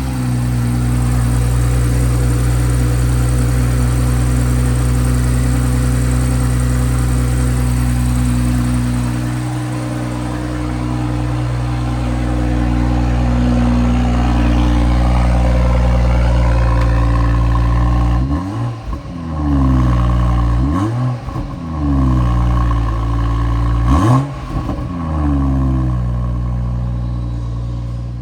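2018 BMW X3 M40i's turbocharged 3.0-litre B58 inline-six idling fast just after a cold start, easing slightly about ten seconds in. Near the end it is revved three times in quick blips, rising and falling in pitch.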